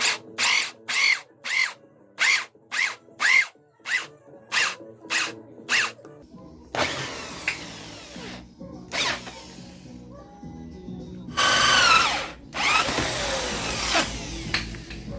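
Electric drill pulsed in short bursts about twice a second, its motor spinning up and down with each pull of the trigger. It then runs in longer, rougher stretches.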